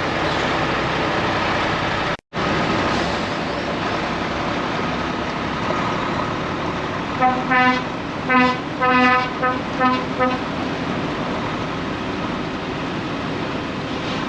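A lorry's air horn sounds a string of short blasts on one pitch, from about seven to ten seconds in, over the steady running and road noise of a truck on the move.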